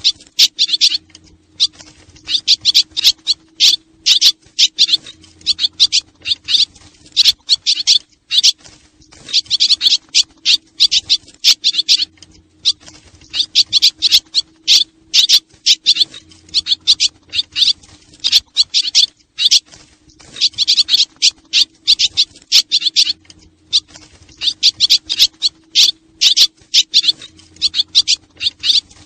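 Swallows twittering: rapid high chirps in bursts of about two seconds with short gaps, over a faint steady hum. This is a repeating lure recording of swallow calls, the kind played to attract the birds.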